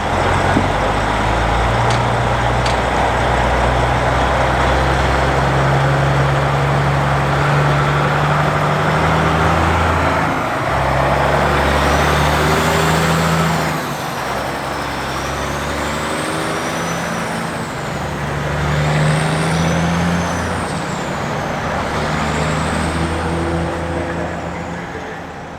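Kenworth K100-series cabover truck's diesel engine running under load, its low drone stepping in pitch several times as it works through the gears. A high whistle wavers up and down over it from about halfway through, and the sound fades away near the end.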